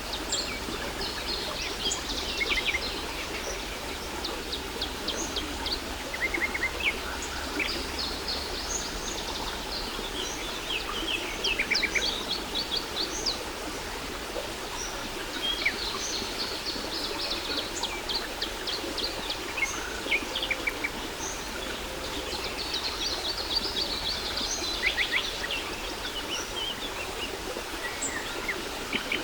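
Steady rush of falling water from a waterfall, with several songbirds chirping and singing quick trills over it, in clusters every few seconds.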